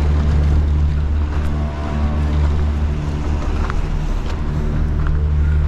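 Gondola lift machinery running with a steady low hum.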